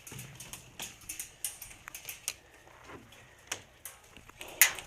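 Scattered, irregular sharp clicks and ticks, with a louder one near the end.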